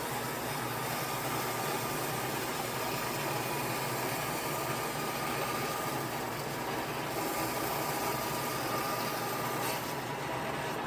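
Steady machine noise with a faint, steady whine, unchanging throughout.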